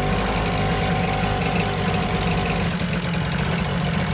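Motorbike engine running steadily, a low continuous hum under a hiss of wind and road noise.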